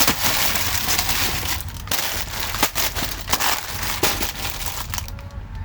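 Dry crunching and crinkling of crisp snack food being crushed and handled, in dense irregular crackles, over a steady low hum.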